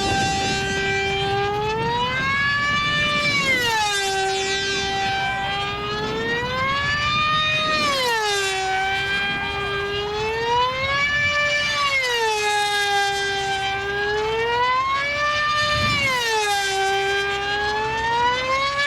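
A siren wailing, one pitched tone whose pitch rises and falls in a slow, regular cycle about every four seconds.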